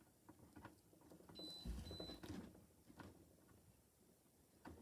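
Faint clicks and handling of wires and a small screwdriver at an alarm panel's screw terminals, with a dull knock a little under two seconds in and two short high beeps.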